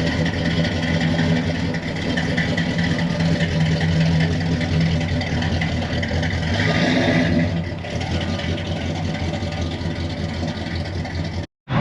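Car engine running steadily, easing slightly about eight seconds in.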